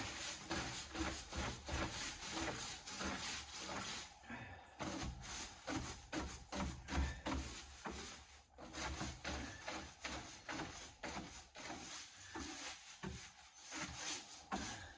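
Broom sweeping out a chicken brooder box: quick, repeated scraping strokes of bristles over the floor, with a brief pause a little past halfway.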